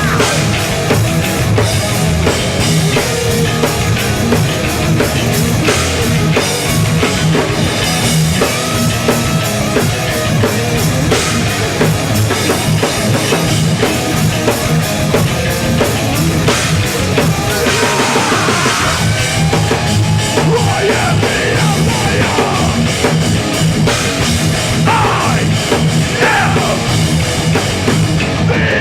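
Hardcore punk band playing live at full volume, with drum kit and heavy rock backing, in an instrumental stretch without vocals.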